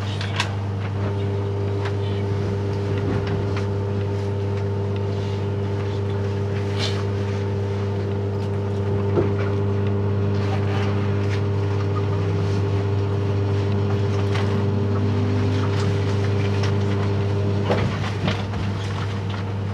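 Inside the cabin of a JR 583-series electric train: a steady hum made of several held tones from the train's running equipment, with faint scattered clicks.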